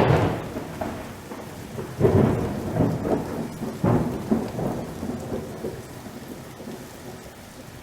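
Thunder rumbling in three rolls about two seconds apart, each fading out, over steady rain; the rumbles die down toward the end.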